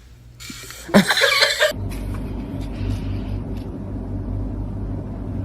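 A brief burst of noise, then a steady low rumble that sets in about two seconds in and holds.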